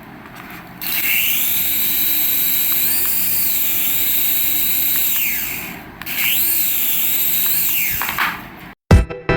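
Small electric motor of a radio-controlled toy running in two bursts: each time it spins up into a high-pitched whine, holds, and winds back down.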